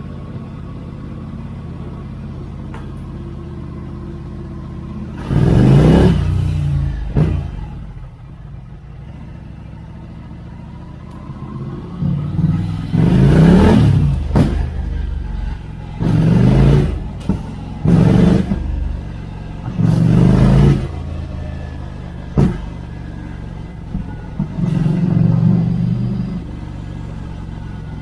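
Ducati Scrambler 803's air-cooled L-twin engine through an aftermarket Termignoni exhaust, ridden on the road: a steady drone broken by about six loud bursts of throttle, the revs climbing and dropping each time.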